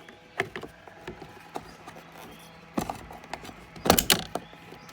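Clicks, knocks and rattles of a car's emergency warning triangle and its hard case being pried out of a tight storage mount, with a loud cluster of knocks about four seconds in.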